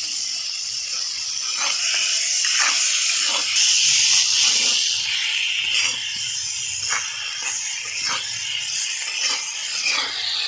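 Tomatoes and onion-spice masala sizzling in oil in a black iron kadai, a steady frying hiss. A metal spatula stirs the mix, scraping the pan a few times.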